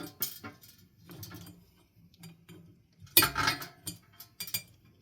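Ceiling fan parts and hardware being handled during disassembly: scattered sharp clicks and clinks, with a louder clatter about three seconds in.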